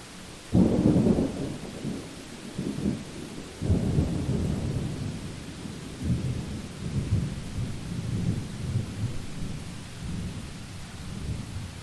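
Thunder: a sudden low crack-and-rumble about half a second in, a second surge near four seconds, then rolling rumbles that die away near the end, over steady rain.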